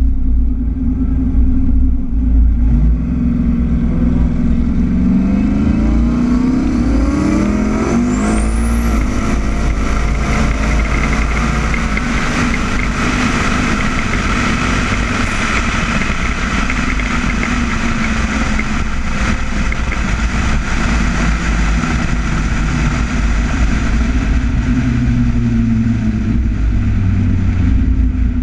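Turbocharged LS V8 in a Fox-body Mustang launching down a drag strip. The engine note climbs in steps as it pulls through the gears, and a very high whine rises about eight seconds in and holds for several seconds. The engine then runs steadily at speed and winds down near the end as the car slows.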